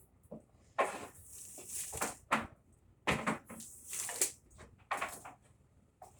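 Rustling and scraping of an extension cord being handled and dragged, in a series of irregular bursts.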